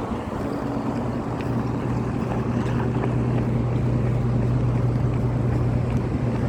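Strong sandstorm wind blowing on the microphone, with a steady low mechanical hum underneath.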